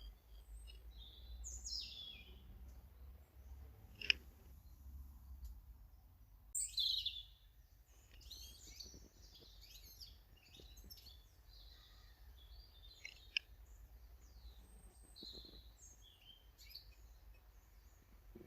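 Small garden birds chirping and calling in a busy series of short high notes, with louder calls about two seconds in and again about seven seconds in. A single sharp click comes about four seconds in.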